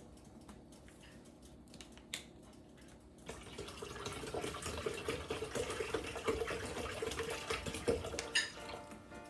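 Water pouring steadily into a container for about six seconds, starting about three seconds in: a measure of water being added to a syrup-and-lime-juice drink.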